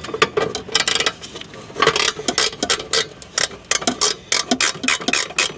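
Irregular metallic clicks, knocks and clinks as a large bolt is worked through a suspension mount and a nut is threaded onto it.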